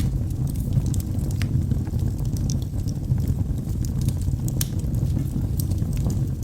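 Wood fire burning in a fireplace: a steady low rumble of flame with irregular sharp crackles and pops from the burning logs, a few each second.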